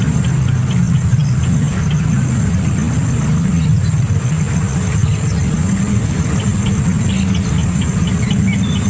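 A steady low mechanical hum like an idling engine, with faint short high chirps scattered through it.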